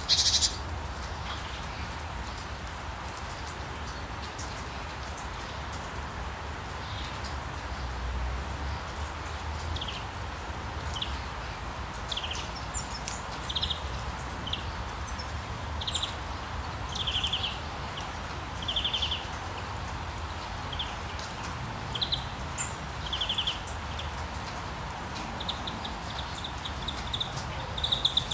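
Rainforest ambience: a steady hiss of rain over a low rumble, with a bird repeating short chirping calls every second or two. A louder call comes right at the start and a rapid trill near the end.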